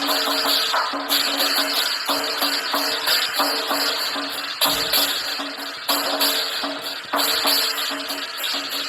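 Lion dance music: drums and cymbals played in a fast, even rhythm over steady ringing tones.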